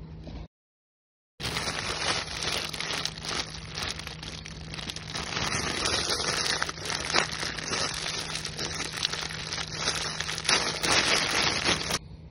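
Food wrapping crinkling and rustling steadily as it is handled and pulled open, a dense run of small crackles. It starts after a moment of dead silence and stops abruptly near the end.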